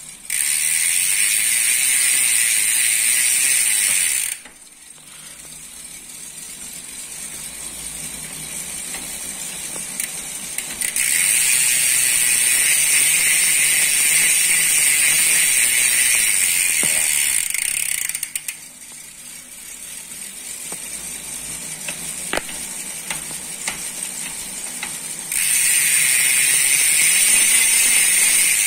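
Hope Pro II rear hub freewheel: the pawls click against the ratchet ring so fast that they make a loud, high buzz. The buzz comes in three long stretches, each ending abruptly. Between them are quieter stretches that slowly grow louder.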